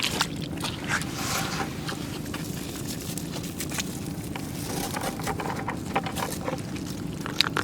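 Irregular scraping and clicking as a large mud crab is grabbed and handled among rocks, shell knocking on stone, over a steady low background rumble.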